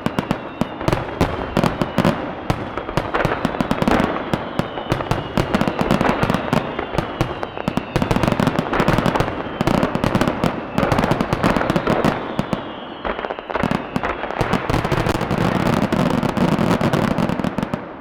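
Dense, rapid barrage of aerial firework shells bursting and crackling one after another, with thin falling whistles above them; the barrage stops abruptly at the very end.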